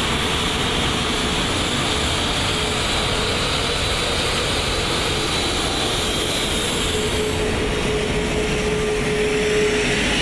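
Steady cockpit noise of an Airbus A380 taxiing: an even rush of air and engine noise with a steady hum, which grows stronger in the second half.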